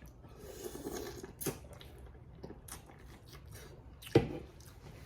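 Small cracks and clicks of boiled crawfish shells being peeled and eaten, scattered and irregular, with the sharpest snap about four seconds in.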